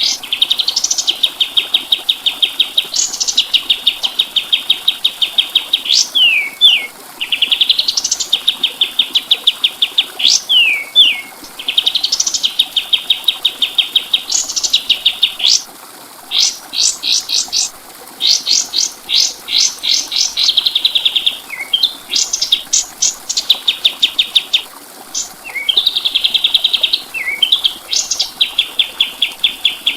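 Kapas tembak songbird singing: phrase after phrase of fast, high trills, each opened by a rising sweep and ended by a couple of quick falling notes, with short breaks between the phrases.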